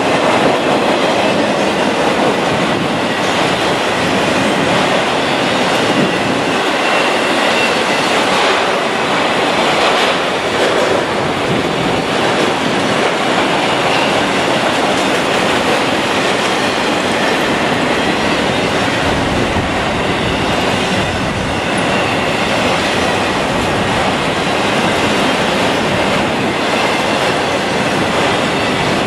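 Train rolling past close by: a steady, loud noise of wheels on rail, with a faint high-pitched squeal from the wheels.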